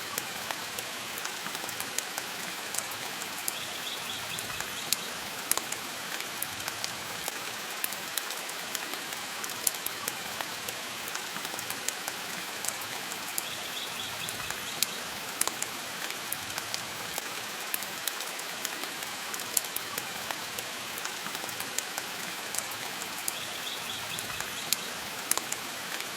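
Steady hiss of rain, dotted throughout with sharp crackles and pops from a wood fire in a fireplace.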